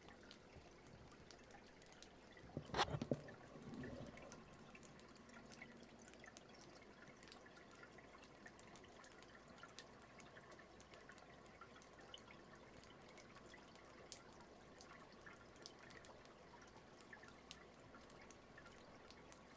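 Near silence: faint room tone with scattered faint ticks and one brief, louder short sound about three seconds in.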